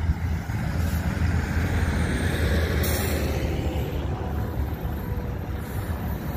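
Container cars of a long intermodal freight train rolling past at speed: a steady rumble of wheels on rail.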